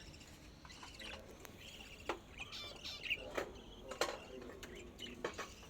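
Small pet cage birds chirping in short, scattered calls, with a few sharp clicks between them.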